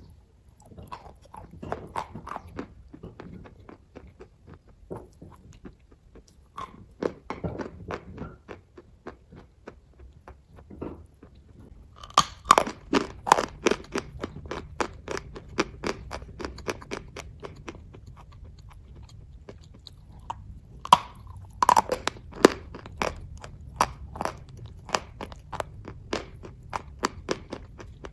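Close-up chewing of kaju katli (cashew fudge), a run of short moist mouth clicks and smacks. The chewing gets louder and busier about twelve seconds in and again a little after twenty-one seconds.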